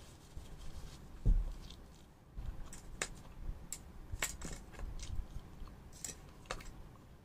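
Close-up chewing of a mouthful of food, with a run of wet mouth clicks and smacks. A dull thump about a second in is the loudest sound.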